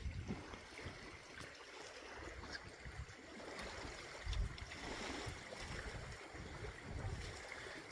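Faint lakeshore ambience: an even hiss of water with light wind on the microphone, and a low bump about four seconds in.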